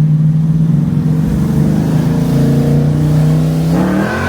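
Holden HQ Monaro's engine running loud at steady revs, then revving up near the end.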